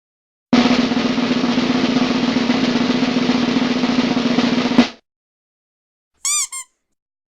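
Snare drum roll sound effect, a steady rattle lasting about four seconds and ending in a single hit. After a pause come two quick high chirps.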